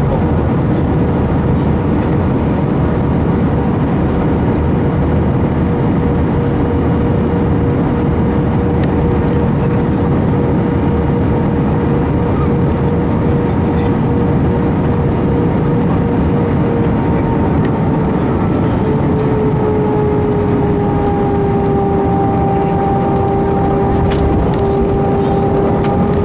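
Airbus A320 jet engines and airflow heard inside the cabin as a steady, loud rumble. A whining tone over the rumble drops slightly in pitch about three-quarters of the way through.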